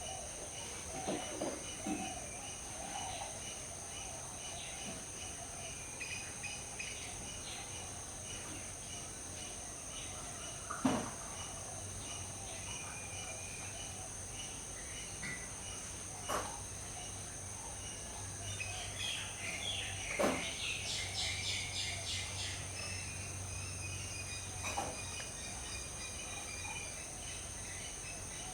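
Tropical woodland ambience: a steady, high-pitched insect drone with scattered bird calls over it. A few sharp falling calls stand out, and a quick run of chirping comes about two-thirds of the way through.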